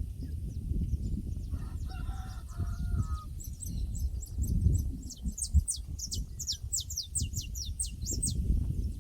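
A rooster crows once, starting about one and a half seconds in and lasting about a second and a half. From about three and a half seconds in, a fast run of high chirps, each sliding downward, comes from small birds. A low, steady rumbling noise runs underneath.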